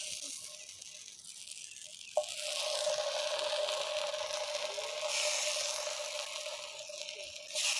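Masala-coated raw plantain (vazhakkai) slices sizzling in oil on a flat iron pan as fresh slices are laid in. A click about two seconds in is followed by a steady tone that holds under the sizzle, and the hiss briefly gets louder near the end.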